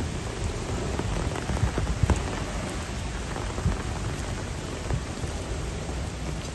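Heavy rain falling: a steady hiss of rain with many small drop impacts on hard surfaces, over a low rumble.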